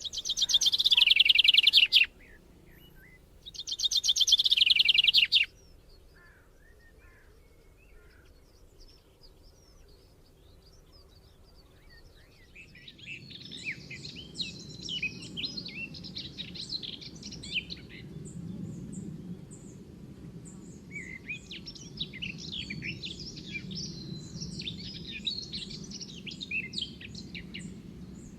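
Birdsong in the countryside: two loud, fast trills, each falling in pitch over about two seconds, open the sound, then after a quiet stretch many birds chirp together from about halfway on, over a low steady rumble.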